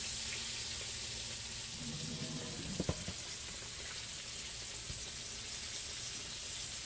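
Flour-dredged chicken pieces frying in hot oil in a cast-iron skillet, a steady sizzle, with a couple of brief clicks about three seconds in.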